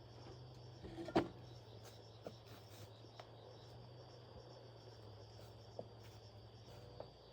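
Faint steady chirring of insects such as crickets over a low steady hum, with a single sharp knock a little over a second in and a few light clicks after it.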